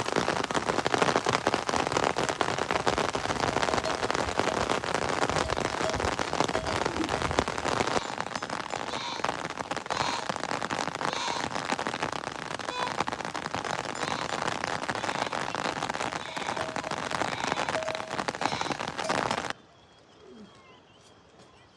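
Heavy rain falling, a dense steady patter of drops, that cuts off abruptly near the end, leaving a much quieter background.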